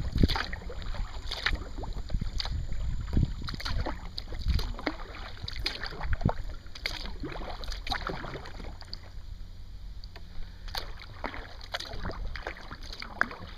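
Kayak paddle strokes: water splashing and dripping off the paddle blades in short irregular bursts, over a low steady rumble of wind on the microphone.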